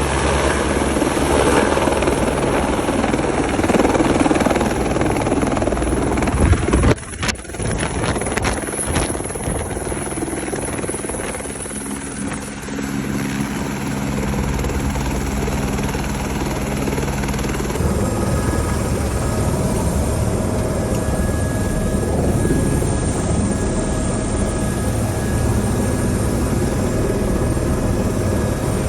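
Helicopter running steadily, its rotor and engine making a continuous low pulsing sound. About seven seconds in the level dips briefly with a few sharp clicks, and the sound shifts in character about eighteen seconds in.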